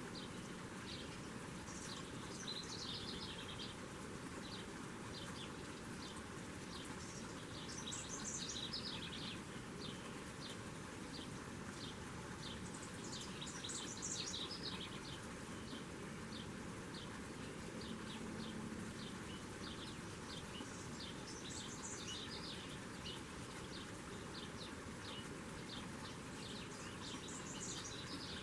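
Small birds chirping, with a burst of high chirps about every six seconds and quick short chirps in between, over a steady outdoor hiss.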